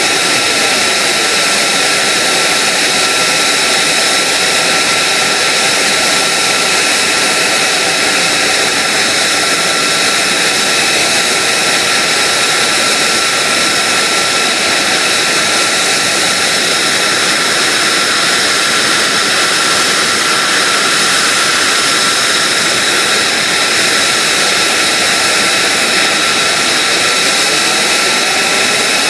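F-35A Lightning II's F135 turbofan running steadily on the ground, with a high, constant whine over the engine's rush.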